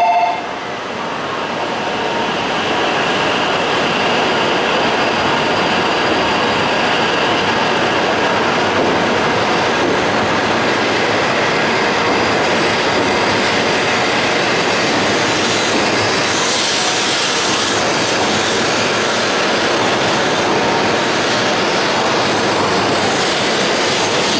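E7 series Shinkansen train pulling out of the station: a steady rushing running noise that builds over the first few seconds and then holds, with a faint high whine early on.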